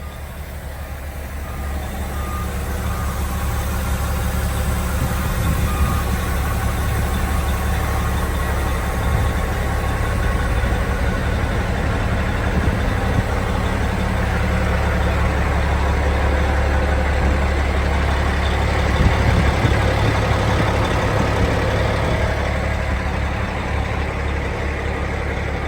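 Volvo dump truck's diesel engine running steadily with a deep rumble, growing louder over the first few seconds and then holding level.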